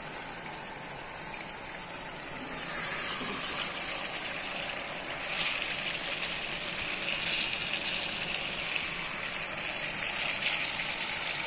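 Chicken pieces in a watery yogurt masala gravy sizzling and bubbling steadily in a frying pan on the stove, getting a little louder and hissier a few seconds in.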